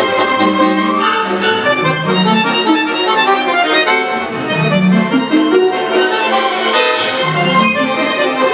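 Concert accordion playing a busy passage of many short notes over sustained bass chords, as the solo part of a concerto for accordion and chamber orchestra.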